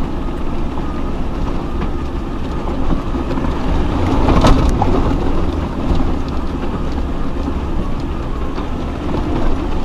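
Off-road 4x4 crawling over a rough track: a steady low engine and drivetrain rumble with rattling. It swells about four seconds in, with a single sharp knock.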